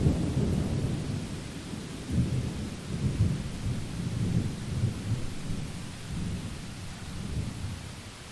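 Thunderstorm: rolling thunder rumbling in repeated deep waves over steady rain hiss, loudest right at the start and easing off near the end.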